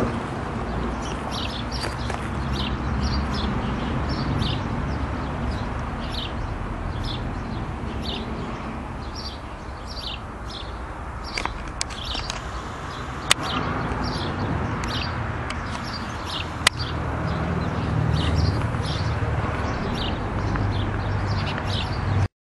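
A small bird chirping over and over in short high calls, about one or two a second, over a steady low rumble, with a few sharp clicks in the middle.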